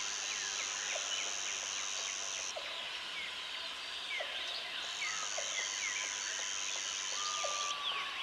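Dense jungle chorus of birds and insects chirping and calling. A high insect buzz drones for about two and a half seconds, stops, then starts again about halfway through, and a bird gives a long sliding whistle near the end.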